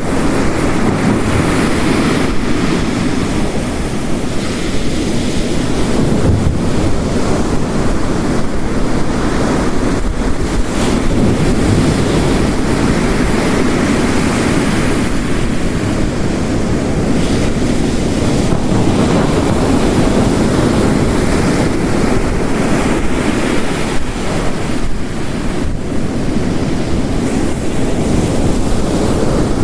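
Ocean waves crashing continuously on a coast, layered with heavy rain. The sound is a dense, steady wash that swells and eases every few seconds.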